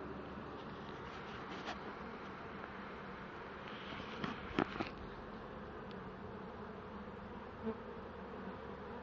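Honeybee swarm buzzing steadily as the bees move into a nuc box. A few short sharp clicks come about halfway through.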